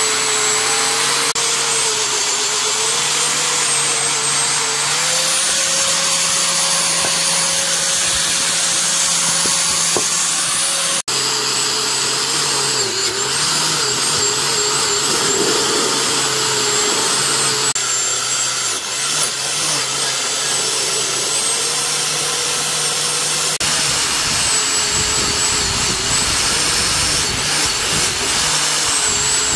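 Handheld electric power tool running continuously with a high whine whose pitch sags and recovers slightly as it is worked; the sound changes abruptly a few times.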